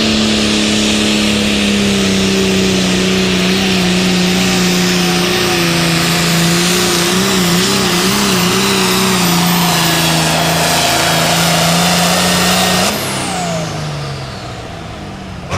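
Turbocharged diesel Pro Farm pulling tractor engine run at full throttle through a pull, with a steady engine note and a high turbo whine. About 13 s in the throttle comes off: the engine note falls and the turbo whine winds down.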